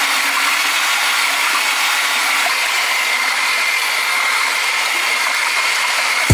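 A machine's electric motor running steadily: a high, steady whine over an even rushing noise.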